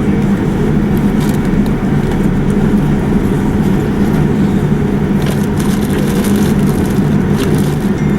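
Steady low rumble of a Boeing 787-9 airliner heard from inside the passenger cabin, with a few light rattles a little past the middle.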